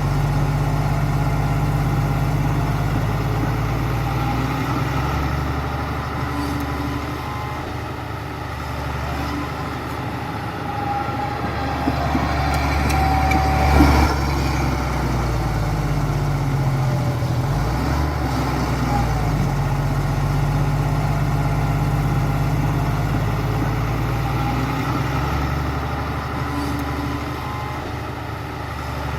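Heavy diesel engine of construction machinery running steadily, its pitch rising and falling slightly as it works. There is a single sharp knock about halfway through.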